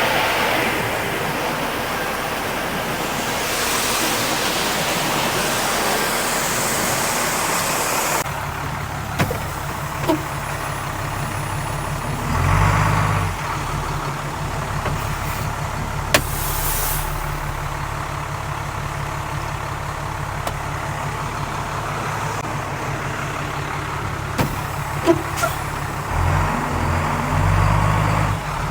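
Farm machinery running: an even rushing noise for about the first eight seconds, then an abrupt change to a steady low engine hum, with a few sharp clicks and two short swells in the engine sound.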